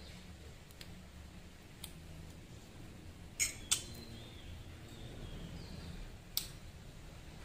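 A person chewing food with a few sharp mouth smacks, two close together about three and a half seconds in and one more near the end. Faint high chirps sound behind.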